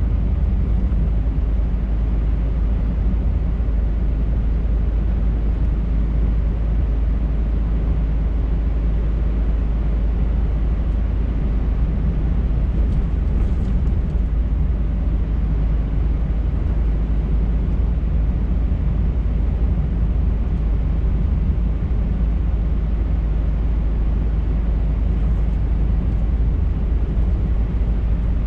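Scania R580 truck driving at a steady speed: the low, steady drone of its V8 diesel engine mixed with road noise.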